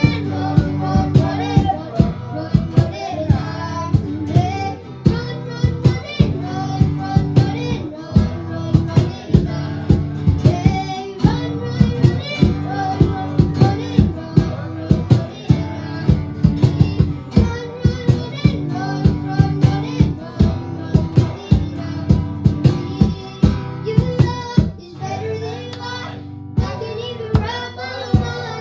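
Live worship band playing, with a steady drum beat about twice a second and a singing voice carrying the melody. The band drops back briefly a little before the end.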